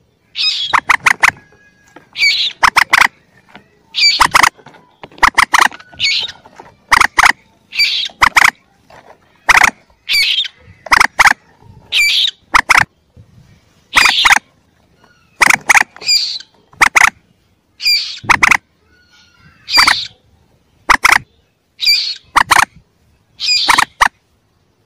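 Calls of young common moorhens as a bird-lure recording: a squawk followed by a few quick clipped notes, the same group repeating about every two seconds.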